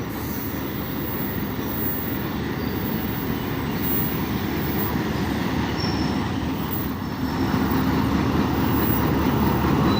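Express train pulling in behind a GE U20C diesel-electric locomotive: the steady rumble of the engine and rolling wheels, growing louder about seven seconds in.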